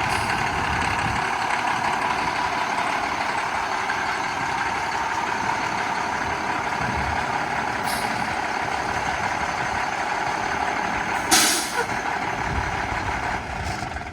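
International 7600 heavy truck running steadily, with a steady whine over the engine. About eleven seconds in there is a short, loud hiss, and a fainter one comes a few seconds earlier.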